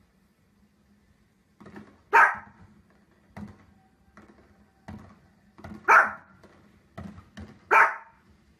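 A small dog barking: three loud, sharp barks, the last two less than two seconds apart near the end, with fainter short pops in between.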